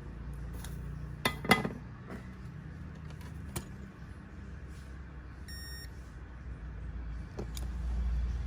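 A few sharp clicks and taps, the loudest two close together early on, and a short electronic beep about five and a half seconds in, over a steady low rumble.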